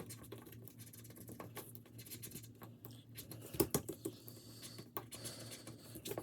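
Light handling of paper cash and savings sheets: soft rustles and small scattered clicks, with one sharper click a little past halfway.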